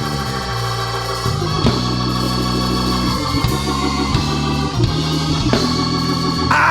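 Church praise band playing between sung lines: Hammond-style organ chords over a steady bass.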